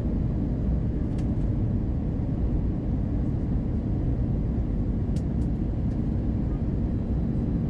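Steady low rumble of an Airbus A320-212 heard inside the passenger cabin: its CFM56 turbofan engines and the airflow over the fuselage, with two faint clicks about a second in and about five seconds in.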